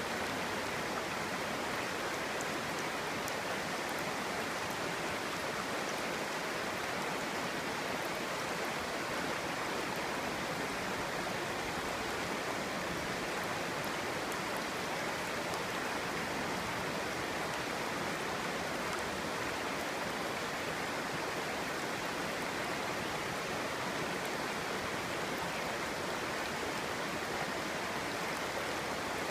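A clear stream babbling and burbling over rocks, a steady, even rush of flowing water.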